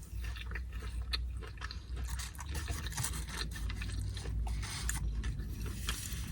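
Chewing crunchy tortilla chips loaded with carne asada, a run of many small irregular crunches and scrapes.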